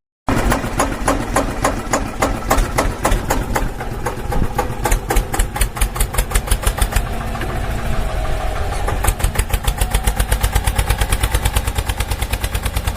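Diesel-style tractor engine chugging in a steady, rapid beat that quickens from about nine seconds in.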